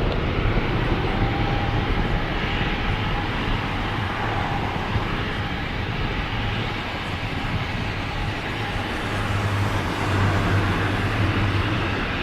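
Boeing 737-800's CFM56-7B jet engines running at takeoff power: a steady, dense noise with a low hum that grows stronger near the end.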